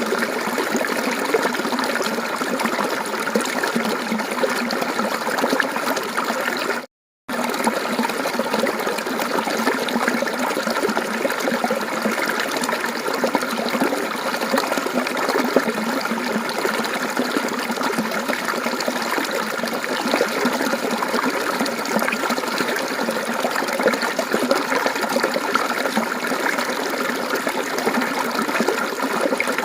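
Mountain stream water trickling and babbling steadily, with a brief cut to total silence about seven seconds in.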